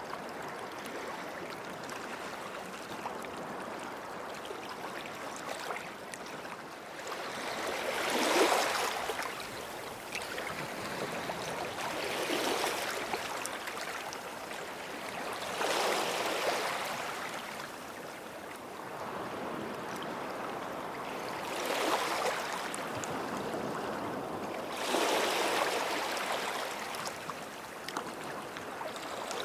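Small waves washing in at the water's edge of a sandy beach, the sound swelling and easing as each one breaks, several a few seconds apart over a steady wash.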